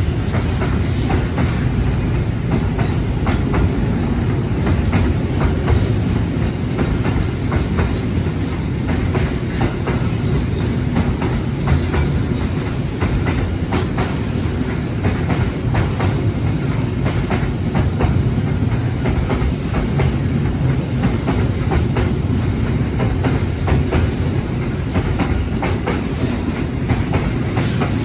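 Container freight train's wagons rolling past in a steady rumble, the wheels clacking over the rail joints. A brief high wheel squeal comes about three-quarters of the way through.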